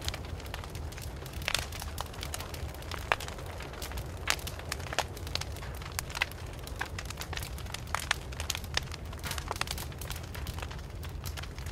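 Wood fire burning with irregular crackles and sharp pops over a steady low rumble of the flames.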